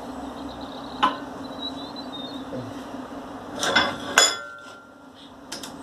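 Small steel parts clinking and knocking on metal as a washer and pipe are handled for welding: one knock about a second in, a few more around four seconds, then a sharp clink that rings briefly. A low steady hum underneath drops away right after that clink.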